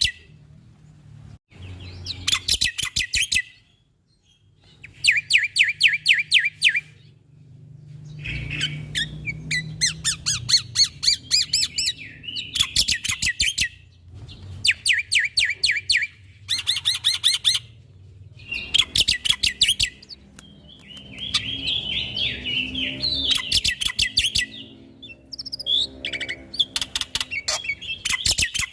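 Black-winged starling (jalak putih) singing in repeated bursts of rapid, rattling notes, each burst a second or two long with short pauses between. Harsher, squawky phrases come near the end, over a faint low hum.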